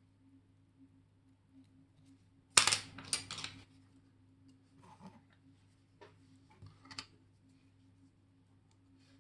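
Small metal watchmaking tools and watch parts clicking and scraping, with a quick run of sharp clicks about two and a half seconds in and a few lighter ticks later, over a faint steady hum.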